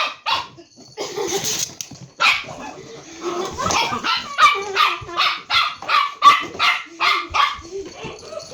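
A dog barking repeatedly, with quick runs of short barks about three a second in the middle.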